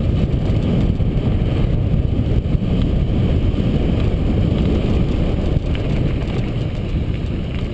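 Steady wind rumble on the microphone mixed with tyre noise from a mountain bike riding fast downhill.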